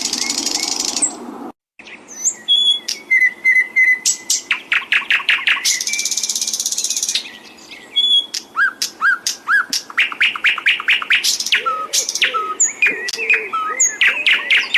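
Recorded songbird song: a dense run of rapid trills, whistled slurs and buzzy rattles, as used to tutor caged songbirds. It drops out briefly about a second and a half in, and lower repeated notes join under the song near the end.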